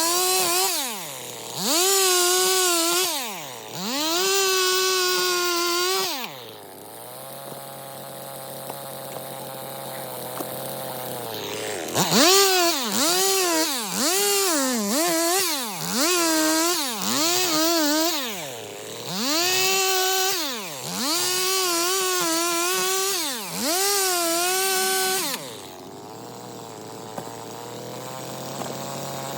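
Stihl MS 250 two-stroke chainsaw being throttled up to full speed in repeated bursts and dropping back between them. It idles steadily for several seconds twice, with quick throttle blips about once a second in between.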